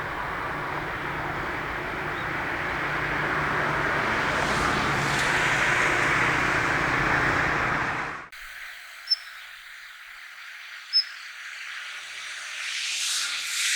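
A passing vehicle's rumble with a low hum, swelling louder and then cut off abruptly about eight seconds in. After it, in quieter surroundings, two brief high, thin call notes about two seconds apart, a male Daurian redstart calling.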